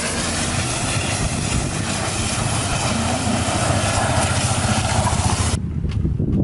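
An engine running, with a steady low pulsing and a loud hiss over it; the hiss cuts off suddenly near the end while the engine goes on.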